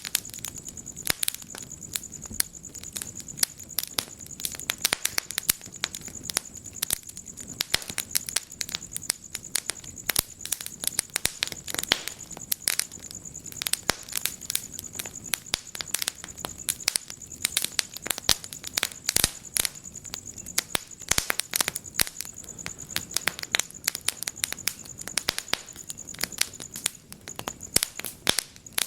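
Wood fire burning in a fireplace, crackling and popping with dense, irregular sharp snaps. A thin, steady high-pitched tone runs beneath and stops near the end.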